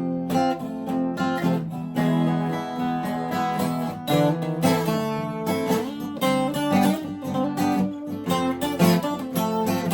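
Acoustic guitar playing, with strummed chords and picked notes.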